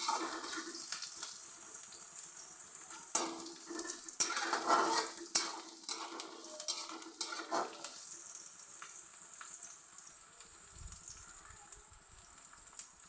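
Sliced onions frying in hot oil in a kadai, a steady sizzle, while they are turned and stirred with a few scraping clatters in the first half. The onions are being fried to reddish-brown to make beresta.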